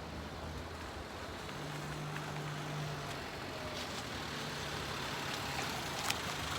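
A vehicle running: steady engine and road noise with a low hum.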